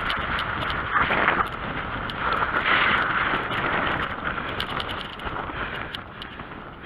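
BMX bicycle being ridden: rolling tyre and frame noise with small clicks throughout, and wind rushing over the microphone, easing off a little toward the end.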